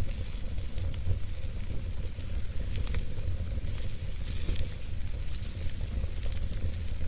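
Wood fire burning in a fireplace: a steady low rumble of flame and a hiss, with scattered small crackles and pops from the burning wood.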